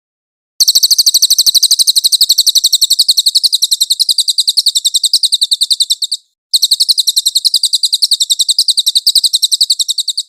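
Cililin songbird singing a very high-pitched, rapid trill of about fourteen notes a second. It comes in two long runs with a brief break about six seconds in.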